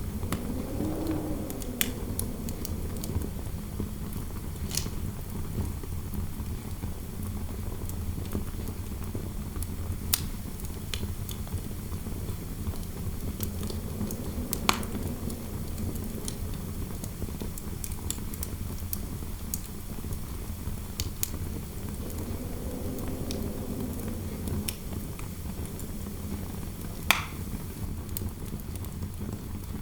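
Fire crackling, with scattered sharp pops, the loudest near the end, over a steady low wind rumble. Soft howling wind gusts swell and fade three times.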